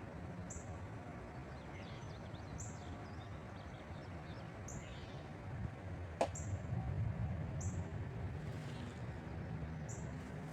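Birds singing: a short, high chirp repeated about every two seconds, with softer warbling calls between, over a low steady outdoor rumble. A single sharp click about six seconds in.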